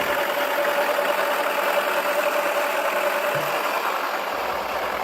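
Toy washing machine running, its small electric motor turning the drum with a steady whine over a noisy whirr. The whine stops about three and a half seconds in.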